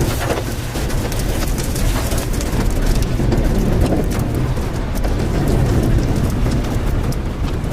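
Tornado-force wind roaring and buffeting the microphone with a heavy low rumble, mixed with rain and many scattered sharp clicks and knocks.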